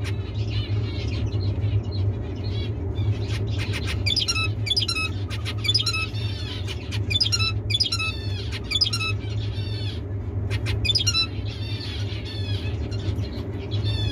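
Male zebra finch singing: repeated phrases of quick chirping notes, his song, heard over a steady low hum.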